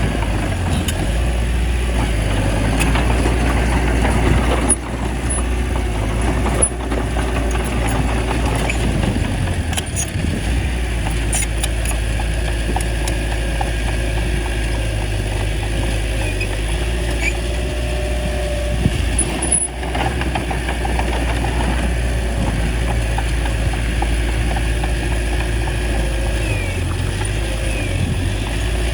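Small crawler bulldozer's diesel engine running steadily while it pushes soil, with a few sharp metallic knocks.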